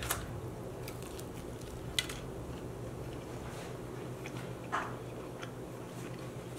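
Soft chewing and mouth sounds close to the microphone, with a few light clicks and crackles from handling crisp fried plantain slices (tostones); one sharper click about two seconds in and a short mouth sound about five seconds in.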